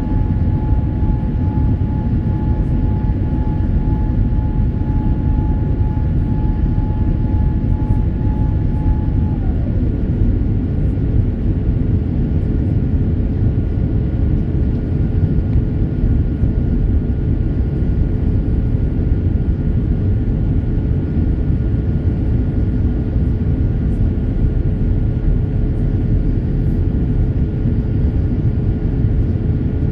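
Steady rumble of a Boeing 787 Dreamliner's jet engines, with a thin whine that drops to a lower pitch about ten seconds in and holds there.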